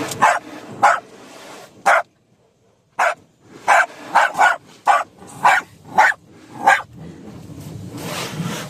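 A dog barking angrily at things coming towards the car, in about ten sharp single barks with a short pause about two seconds in. A steady hiss builds up near the end.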